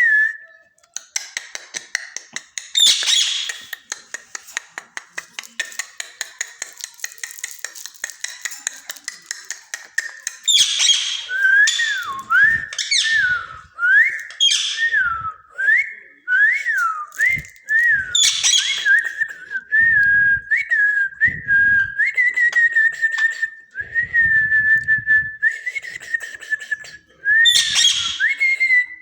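Pet parrot calling: rapid clicking chatter broken by harsh calls, then a string of rising-and-falling whistles, with one long held whistle in the second half.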